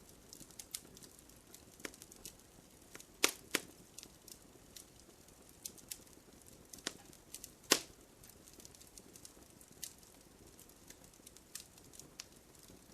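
Wood bonfire crackling: irregular sharp pops and snaps over a faint steady background, with a few louder pops in the middle.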